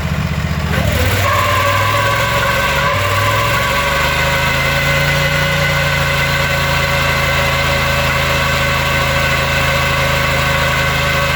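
An engine running steadily at idle, with a steady whine above it; its note shifts up about a second in and settles again around four seconds in.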